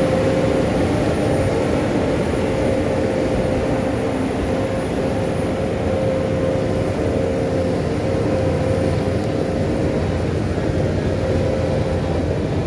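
Heavy earthmoving machinery's diesel engine running steadily, a low rumble with a held, pitched hum over it.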